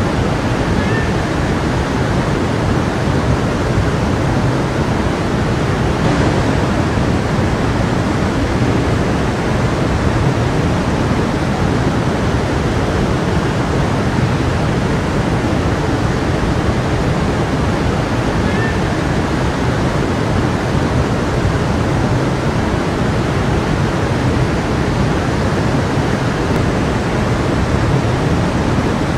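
A stream of water rushing and babbling steadily over rocks.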